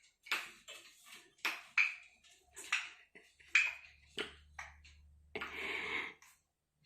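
Parrot making a quick run of short, sharp clicks and chirps, then one longer, rougher squawk near the end.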